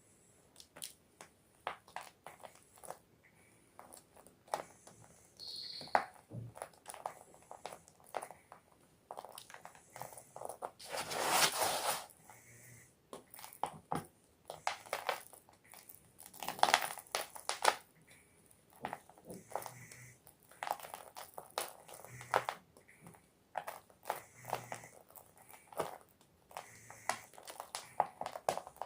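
A block of gym chalk (magnesium carbonate) being crushed and crumbled, a run of dry crunches and crackles with a longer, louder crunch near the middle.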